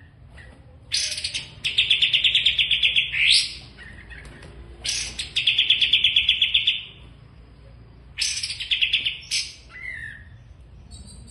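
A songbird singing three loud phrases, about a second, five seconds and eight seconds in, each built around a fast, even trill of roughly ten notes a second and sharp high notes.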